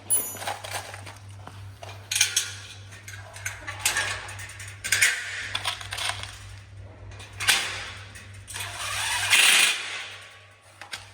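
Handling noises of greenhouse parts during assembly: irregular clinks, knocks and rustles of metal frame pieces and fittings, several bursts a few seconds apart. A steady low hum runs underneath and stops about nine seconds in.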